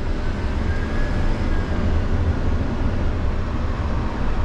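Mercedes Econic bin lorry heard from inside the cab: a steady low engine rumble with road noise.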